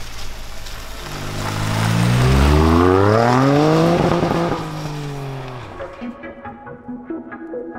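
Toyota GR Yaris's turbocharged three-cylinder engine accelerating hard, its note rising for about three seconds over the hiss of tyres spraying loose gravel, then holding briefly and fading as the car passes. Music takes over near the end.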